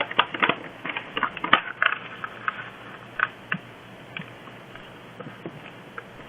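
Origami paper being folded and creased by hand, crackling and crinkling: a quick flurry of crinkles in the first two seconds, then scattered single clicks.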